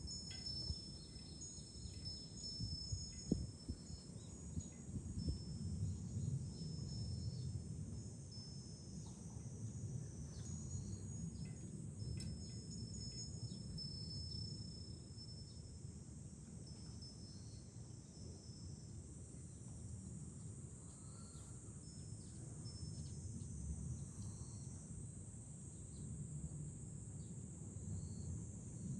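Cicadas singing in a steady, continuous high-pitched chorus, over a low rumble of wind on the microphone.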